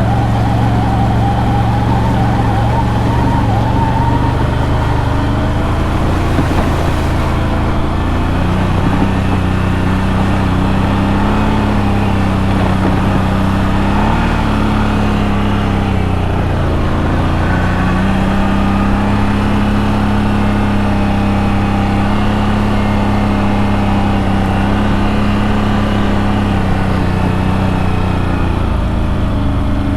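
ATV engine running steadily under way on a trail, with a constant low drone. About halfway through the engine eases off briefly, then picks up again.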